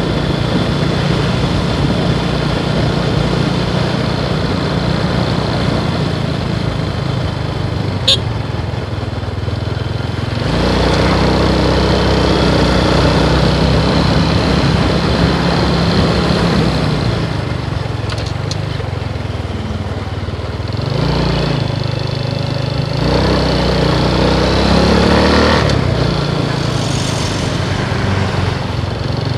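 Motorcycle engine running under way, its note rising and falling with the throttle as the bike accelerates and slows, louder from about a third of the way in and climbing again near the end. A sharp click about eight seconds in.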